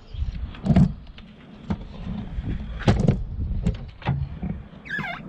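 Several knocks and clicks from handling a car door and its interior trim, the loudest about a second in.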